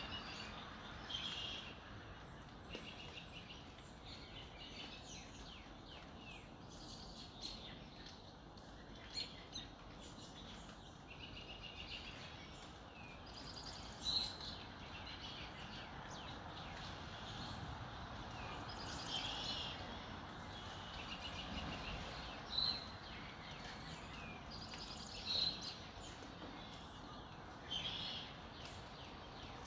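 Several birds singing and chirping over a steady background hiss of outdoor ambience, short high chirps and trills coming every second or two.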